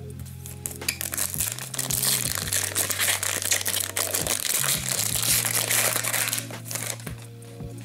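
Crinkling of a hockey card pack's wrapper being handled and opened, loudest in the middle, over background music with a steady low bass line.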